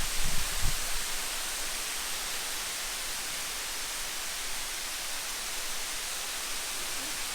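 Waterfall: a steady rush of falling water, with a couple of soft low thumps in the first second.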